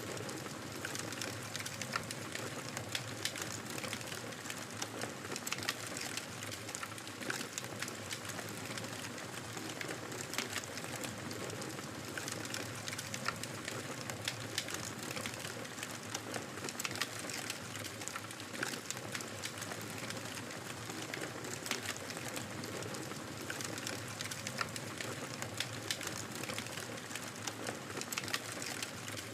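Fireplace fire crackling: a steady hiss dotted with many small, sharp pops and snaps.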